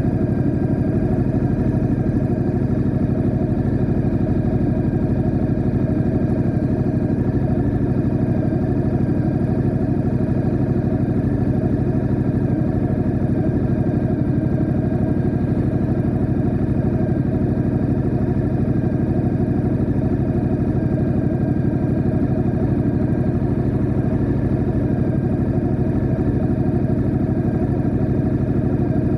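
Ducati Diavel 1260S's V-twin engine running steadily at an unchanging pitch, with no revving.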